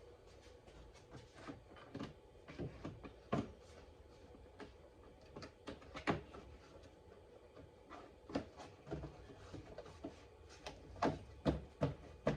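Irregular clicks and knocks of plastic trim pieces being handled and fitted back onto a car's front end, with a few louder knocks about three seconds, six seconds and eleven seconds in.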